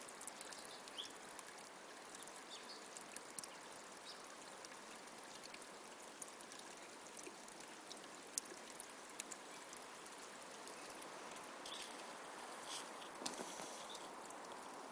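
Water from a leak running steadily, with scattered small ticks and splashes. The leak is still flowing at full rate, before any repair.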